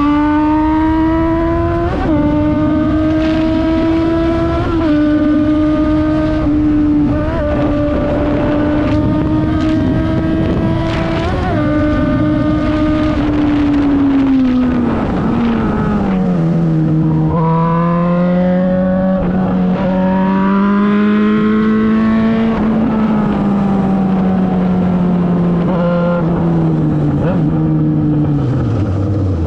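Yamaha XJ6's 600 cc inline-four engine through a full Akrapovic exhaust, running under way: the engine note climbs with a few small steps over the first half, drops away as the bike slows about halfway through, holds and rises a little, then falls again near the end.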